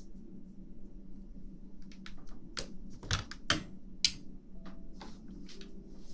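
Irregular light clicks and taps at a slow, uneven pace, a few sharper ones about three to four seconds in, over a faint steady hum.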